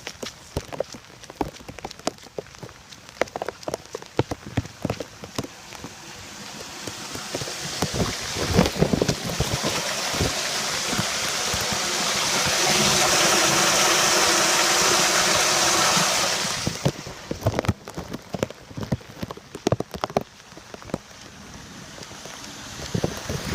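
Rainwater draining into a storm sewer: irregular drips and splashes, with a louder, steady rush of water for about eight seconds in the middle that cuts off suddenly.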